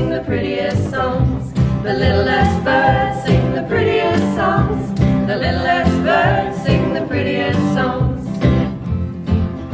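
Women's choir singing, accompanied by acoustic guitar, bass and a steady percussion beat.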